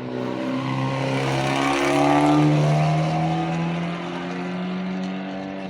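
A rally car's engine accelerating hard past, its pitch climbing steadily. It is loudest about two seconds in and then eases as the car moves away.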